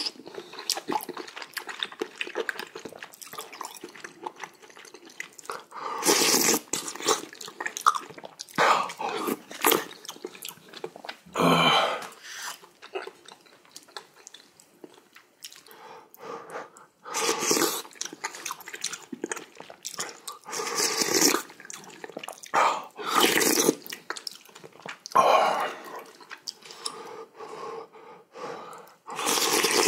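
Close-miked mukbang eating sounds: chewing and wet mouthfuls of hot seaweed soup with rice and kimchi. Louder bursts come every few seconds, with quieter chewing between.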